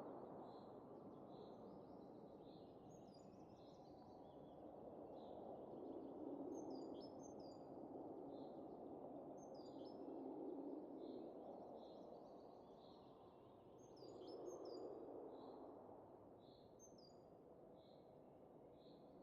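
Soft wind rising and falling in slow gusts, with small birds calling over it: a steady run of short repeated notes, about one a second, and now and then a few quick high chirps.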